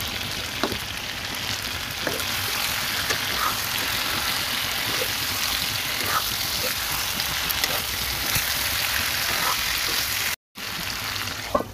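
Chicken curry and potato pieces frying in hot oil in a pan: a steady sizzling hiss with a few faint ticks. The sound drops out for a moment near the end.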